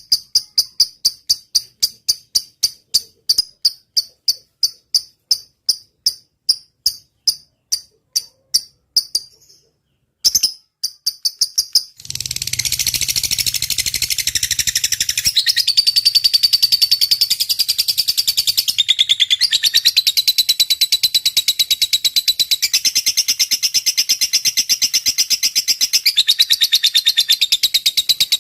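Lovebird singing: a run of sharp repeated chirps, about three a second, growing fainter and sparser over the first nine seconds; then, after a short break, a long fast unbroken chatter, the 'ngetik' (typing-like) trill of a lovebird in full song.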